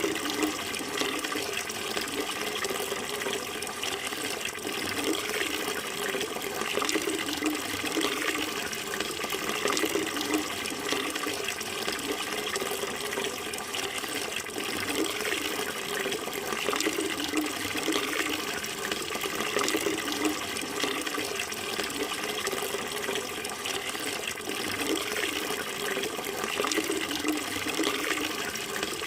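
Running water flowing steadily: a continuous rush with no breaks or changes.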